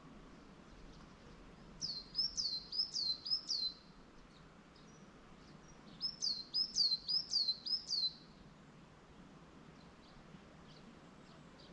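A songbird singing two phrases of rapid, repeated high down-slurred notes, each about two seconds long, a few seconds apart, over a steady faint outdoor hiss.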